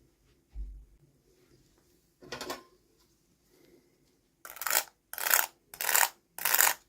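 Toy packaging being handled: a soft knock, a short scrape about two seconds in, then four even rasping strokes about two-thirds of a second apart near the end.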